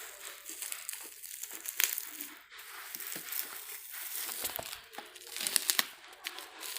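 Packaging being opened and handled, with irregular crinkling rustles and a few sharp clicks that get busier and louder near the end.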